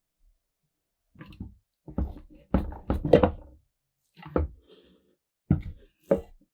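Irregular knocks and clatter of parts and tools being handled on a workbench while the rusty mining lantern is taken apart, with a busy cluster of strikes in the middle.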